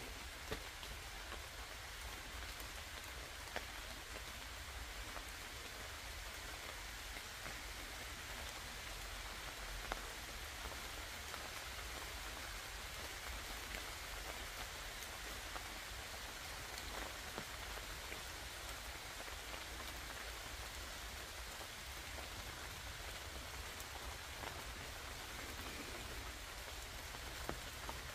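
Steady rain falling on the leaves of a forest canopy, an even patter with a few scattered drop ticks.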